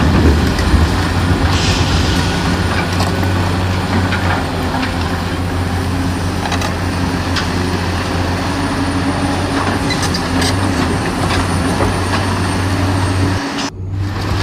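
Radio-controlled model Volvo excavator running: a steady low hum with scattered small clicks and knocks as it works, a short hiss about two seconds in, and a brief cut-out near the end.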